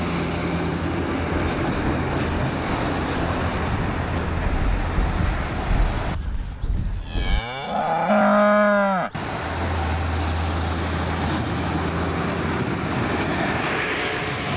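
Steady road noise from heavy trucks, with a low engine drone. About six seconds in it gives way to a drawn-out call of about three seconds whose pitch falls, before the truck noise returns.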